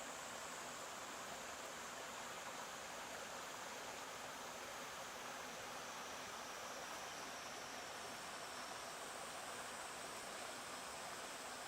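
Stream water flowing steadily, an even rushing of water. A faint, high, steady whine sits above it.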